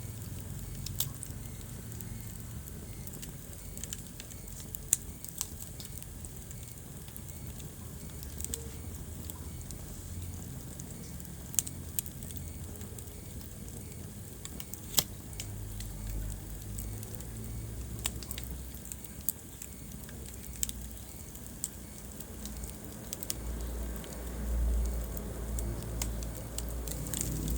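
Wood fire burning in a fireplace: sharp irregular crackles and pops over a low steady rumble of the flames, which swells briefly near the end.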